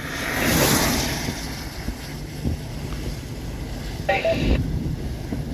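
Strong straight-line wind gust from a line of severe thunderstorms rushing past, swelling in the first second and a half over a low steady rumble. A brief voice sounds about four seconds in.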